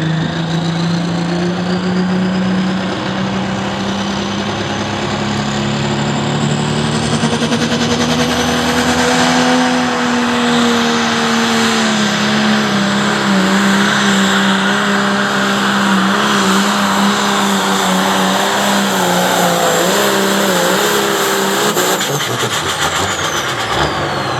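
A pulling tractor's engine running at full power under heavy load down the track, its pitch held high and steady for about twenty seconds. The engine wavers and drops away about 22 seconds in as the hook ends.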